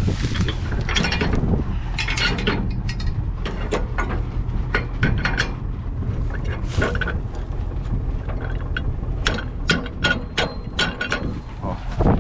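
A steady low engine rumble with many irregular mechanical clicks and rattles over it.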